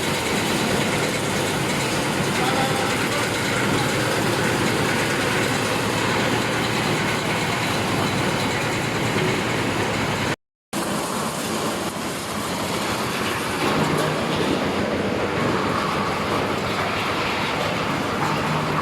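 Corn husking and shelling machine running, a steady, dense mechanical rattle. The sound cuts out completely for a moment about ten seconds in, then carries on the same.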